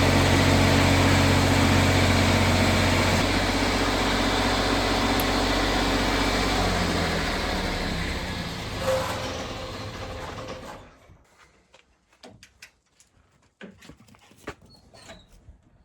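An engine running steadily, fading away from about six seconds in and gone by about eleven seconds, followed by a few faint knocks.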